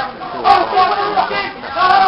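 Football spectators' voices raised in a drawn-out, sung chant, in two phrases: one about half a second in and another near the end.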